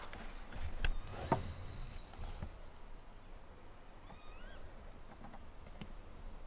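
Quiet outdoor ambience with two short knocks in the first second and a half, and a bird chirping briefly about four seconds in.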